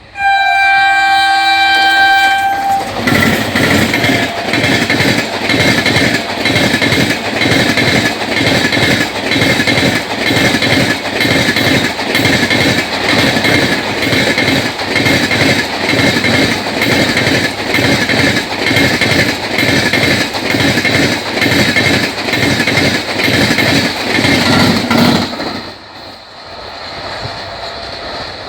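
A locomotive horn sounds for about two and a half seconds. Then an Indian Railways express of LHB coaches passes close at high speed, its wheels clattering over the track in a fast, even rhythm. The clatter stops abruptly near the end, leaving a fainter rumble.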